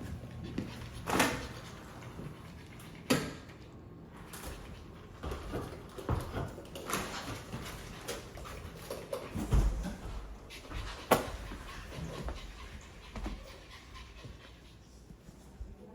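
A small dog whimpering, with a few short sharp sounds spread over several seconds, the loudest about a second in and about eleven seconds in, and a dull thud near ten seconds.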